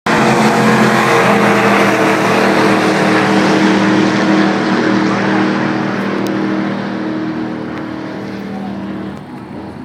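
A loud car engine running at steady, low revs, fading gradually over the last few seconds.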